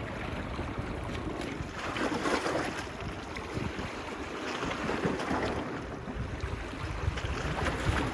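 Small sea waves washing onto a beach, swelling about two seconds in and again around five seconds, with wind buffeting the microphone in a low rumble.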